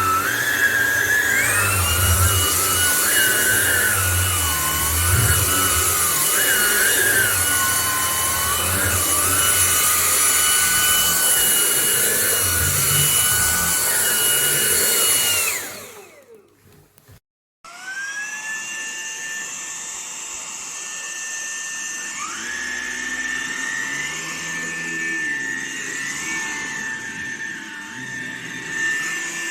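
Vax Blade 4 cordless stick vacuum cleaner running with a high motor whine that steps up in pitch about a second and a half in. Around halfway through it spins down to silence, then starts again, quieter, and its pitch steps up again a few seconds later.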